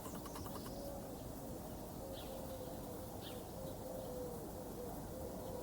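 Pigeons cooing: a run of short, soft, low coos repeated over and over, with a couple of faint high bird chirps.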